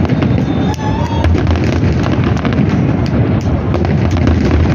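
Fireworks display: a dense, continuous barrage of booming bursts and sharp crackles with no break.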